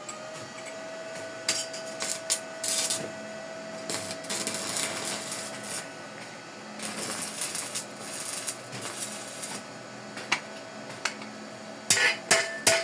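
Arc welding a pipe to a steel plate: the arc crackles and sputters in uneven bursts, with a steady whine behind it for the first half. Near the end come several sharp metal taps.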